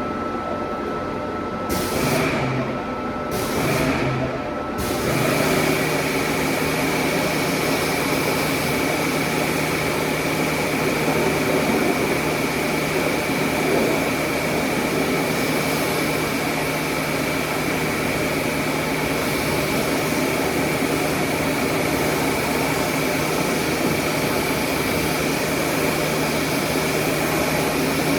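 A car-wash machine motor comes on in two short bursts, then runs steadily from about five seconds in, with a rushing hiss, a low hum and a steady high whine.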